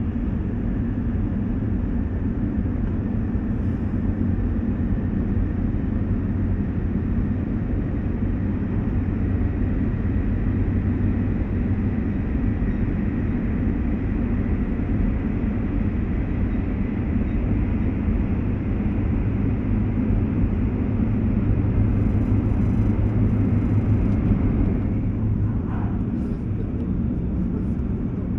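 Cabin running noise of an E2 series Shinkansen car at speed: a steady, loud rumble of wheels on track. A faint thin whine slowly rises in pitch, and the higher hiss eases near the end.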